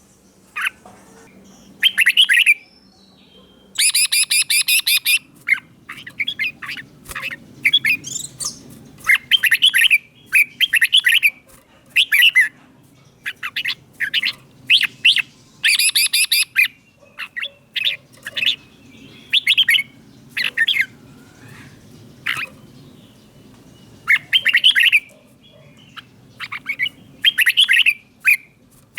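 Red-whiskered bulbul singing: short, bright whistled phrases repeated every second or two with brief pauses between them.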